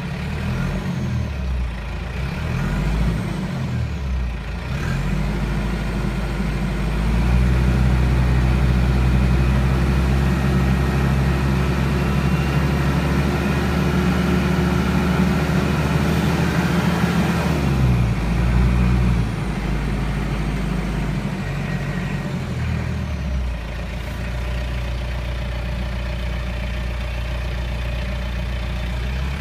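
Kubota MZ655 tractor's turbocharged diesel engine changing speed. It is blipped up and down a few times, then held at higher revs and louder for about ten seconds before dropping back to a lower steady speed.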